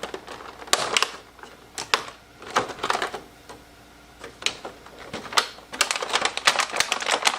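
Cardboard and plastic packaging being handled and opened: a run of irregular sharp clicks, taps and crinkles, growing busier in the last two seconds.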